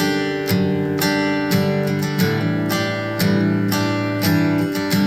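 Background music led by strummed acoustic guitar, chords struck about twice a second.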